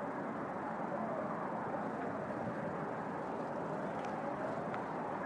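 Steady rushing wind ambience, with faint whistles that slowly rise and fall, and a couple of faint clicks about four seconds in.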